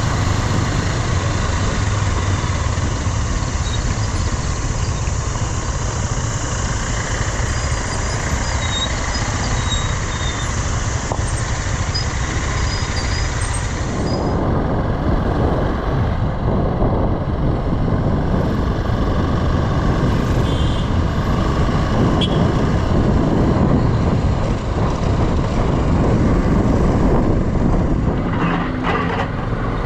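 Steady motorcycle riding noise on the road, with engine and rushing air. About halfway through the sound changes abruptly, with less hiss and more low rumble.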